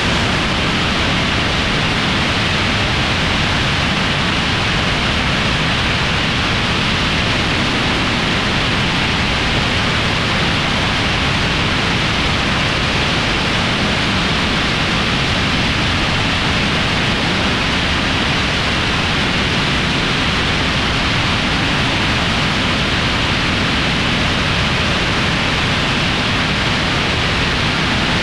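AndroMach rocket engine ground demonstrator firing continuously in a hot-fire test: a loud, steady rushing noise that holds an even level throughout, the sound of stable combustion.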